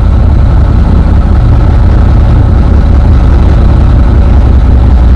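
Sailboat's inboard diesel engine running steadily as the boat motors away from its mooring: a loud, even, low drone.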